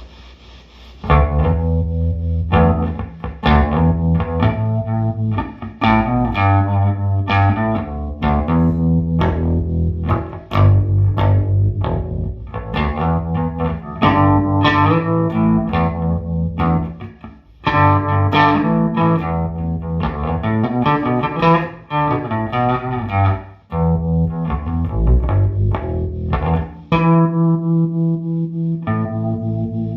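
Electric bass guitar played through a 1973 Fender Quad Reverb combo's vibrato channel with Weber Legacy speakers, its reverb up and its vibrato switched on. A riff of plucked notes starts about a second in, with brief breaks.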